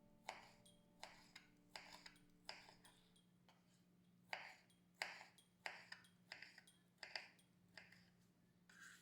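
Faint, irregular light clicks and taps with a slight ring, about one or two a second, over a steady low hum.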